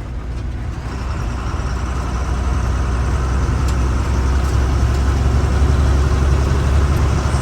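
Truck on the move: a steady low engine rumble with road noise that grows louder over the first few seconds, then holds.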